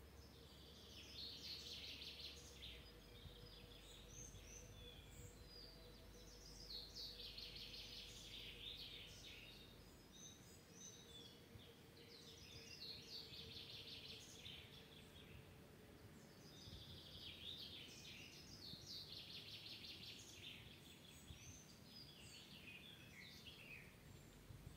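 A songbird singing the same song phrase of about two to three seconds over and over, once every five seconds or so, with a few short fainter calls between songs. A faint steady low hum lies underneath and fades out about ten seconds in.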